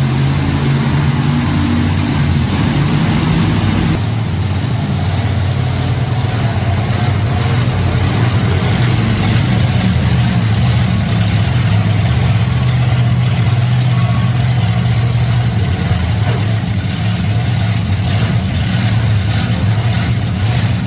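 Monster truck engines running loud and continuous, revving up and down.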